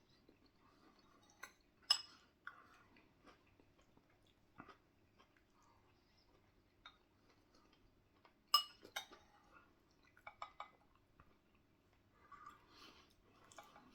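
Eating a curry: faint chewing with scattered sharp clinks of cutlery against a dish, the loudest about two seconds in and again past the eight-second mark.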